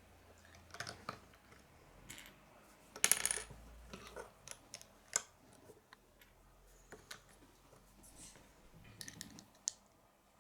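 Plastic Lego bricks being handled and pressed together: scattered small clicks and taps, with a brief clattering rattle of pieces about three seconds in.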